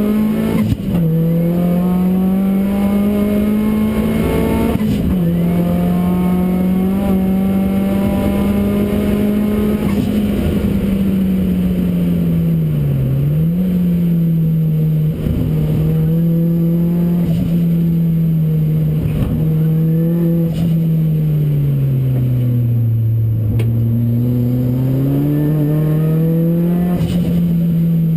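Ford Racing Puma's modified Ford Focus RS engine at track speed, its note climbing and falling with throttle and gear changes. The pitch drops sharply about halfway through, then sinks lower near the end before climbing again.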